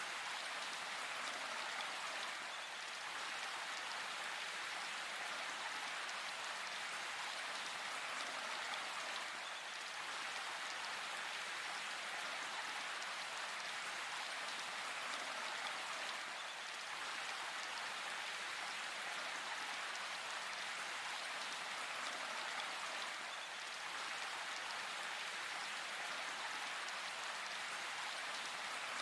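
Steady rain falling, an even hiss of many drops that holds without change.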